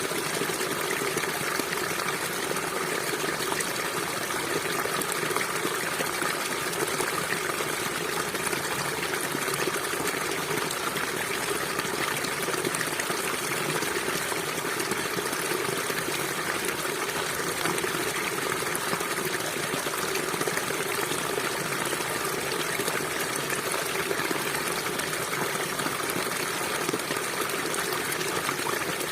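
River water flowing steadily, an even rushing and trickling with no breaks.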